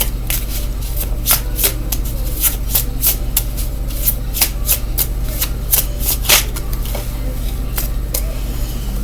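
Tarot cards being shuffled by hand: a run of short, sharp card clicks at an uneven pace of about three a second, over a steady low hum.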